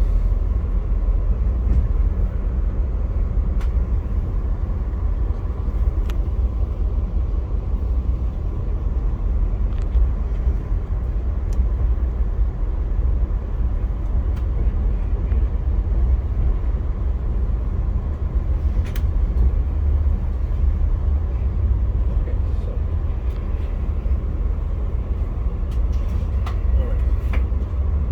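Via Rail passenger train running, a steady low rumble with a few faint clicks.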